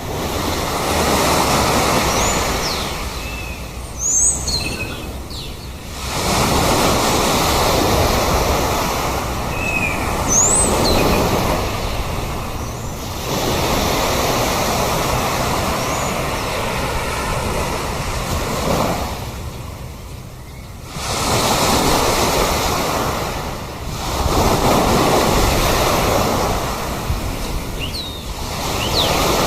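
Sea surf breaking in repeated surges, swelling and falling back every six or seven seconds. Sea birds give short high calls a few times over it.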